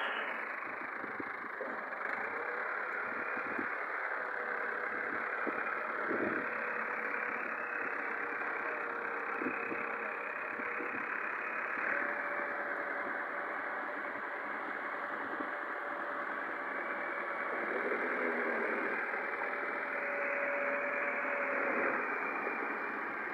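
Tractor engine running steadily at an idle-like speed. Its pitch steps up slightly about halfway through and drops back near the end.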